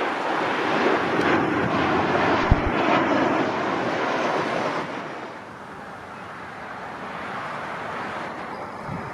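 Landing airplane's engine noise: a broad rushing sound, loud for about the first five seconds and then fading lower, with wind buffeting the microphone and one brief low thump about two and a half seconds in.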